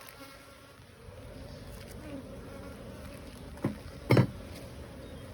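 Honeybees buzzing steadily around an open hive during a frame inspection. Near the end come two short, louder noises about half a second apart.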